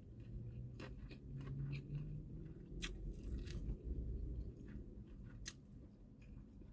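Close-up chewing of egg-wrapped kimbap, soft wet mouth sounds broken by short clicks, two sharper ones about three seconds in and again near five and a half seconds.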